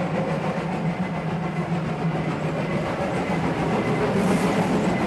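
Steam-hauled train running along the track: a steady rumble and clatter of the train rolling on the rails.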